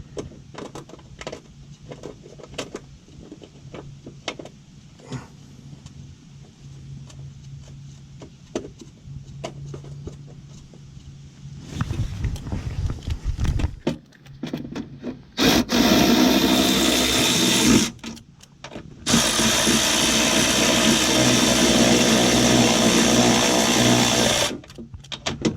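Small clicks and knocks of tools being handled. Then, about halfway through, an electric power tool runs three times, each run a few seconds long, stopping and starting abruptly.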